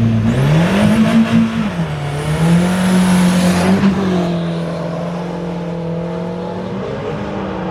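A car engine revs up, drops back, then holds a steady note for several seconds, with a rushing noise over it in the first half.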